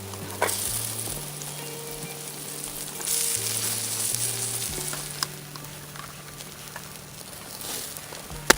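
Meat sizzling on a grill over a campfire: a steady spitting hiss with small crackles. One sharp click sounds near the end.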